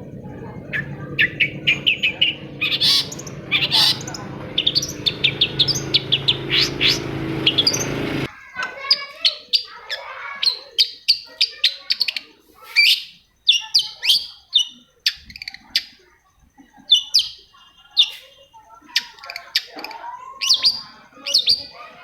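Long-tailed shrike (cendet) singing: rapid runs of sharp, high chirps and harsh notes in quick bursts. For the first eight or so seconds a steady low rumble runs underneath and then cuts off abruptly, leaving the song clean with short pauses between bursts.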